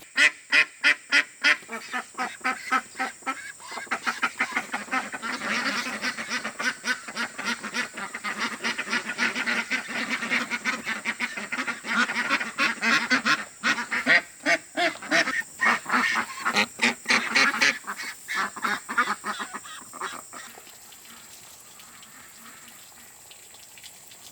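A flock of ducks quacking busily, many short calls in quick succession and overlapping, dying away about twenty seconds in to a faint hiss.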